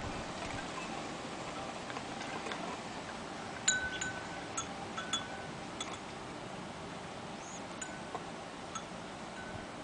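Metal wind chime ringing now and then: scattered single notes, the loudest a little under four seconds in, over a steady faint hush of outdoor air.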